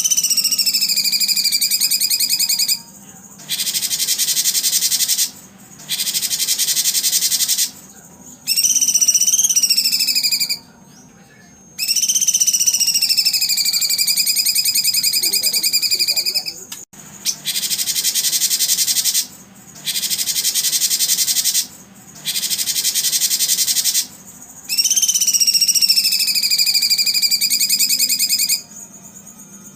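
Recorded songbird calls, looped: long whistled notes that glide slowly downward alternate with a high, dense buzzing trill. Each block lasts two to three seconds, and the blocks are separated by short pauses with abrupt starts and stops.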